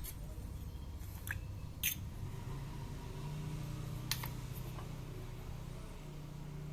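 Four short, sharp clicks of small parts or hand tools being handled during motorcycle brake work, the loudest near the start. A low steady hum runs under them.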